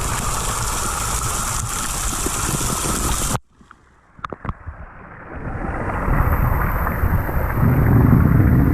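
Rushing water spray and wind buffeting the microphone, from a snowblower-style water sprayer. The noise cuts out suddenly about three and a half seconds in, leaving a few clicks. A duller, muffled rush then returns and builds to its loudest near the end.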